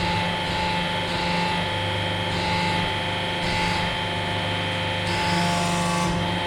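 A 500-ton hydraulic press's pump unit running with a steady hum and whine while it presses a stack of sticky notes.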